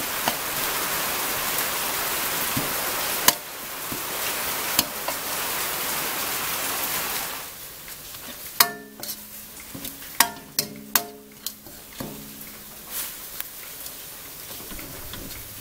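Chili paste sizzling in a pan as it is stir-fried, with a few sharp scrapes. About halfway through the sizzle dies down, and a metal utensil knocks against the pan about five times, each knock ringing briefly.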